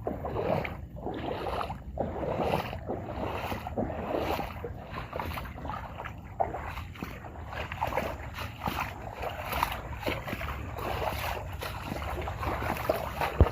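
Floodwater sloshing and splashing in irregular surges, with wind buffeting the microphone.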